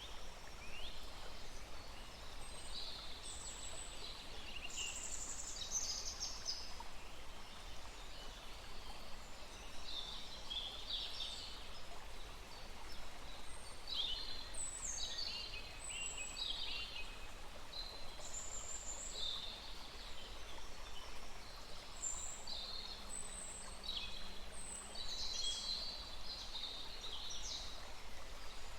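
Several wild birds chirping and trilling in short phrases, one after another, over the steady rush of a small forest stream.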